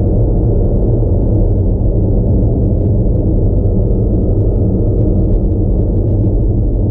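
2019 Audi Q5 50 TDI's 3.0-litre turbo-diesel V6 running at steady revs while driving, a loud, steady low hum that neither rises nor falls.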